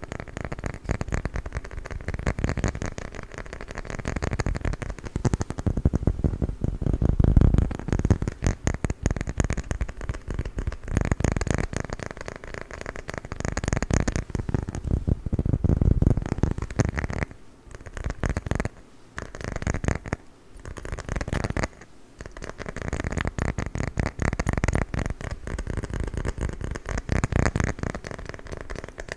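Fast tapping and scratching on a wooden lid: a dense run of quick clicks and rubs with a few short pauses about two-thirds of the way through.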